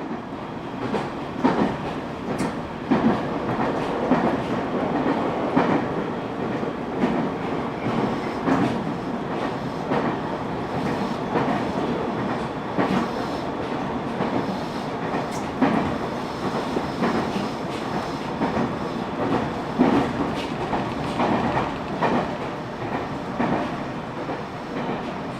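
Train running along the rails, wheels clicking over rail joints about every second and a half over a steady rumble.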